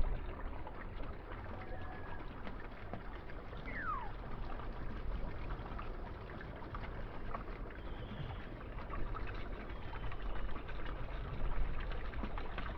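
Steady trickle of running water, with a few faint bird calls over it, one a short falling whistle about four seconds in.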